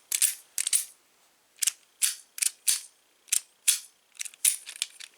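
Small metal door-hardware parts of a Schlage keyed knob set, such as the latch and adapter plate, clicking and clinking as they are handled. There are about a dozen sharp, irregular clicks with short quiet gaps between them.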